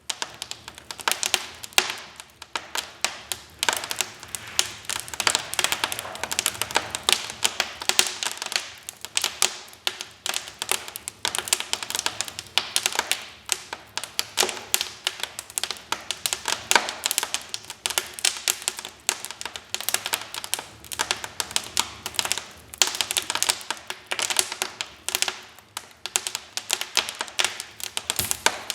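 Wood fire crackling in a fireplace: a dense, irregular run of sharp snaps and pops.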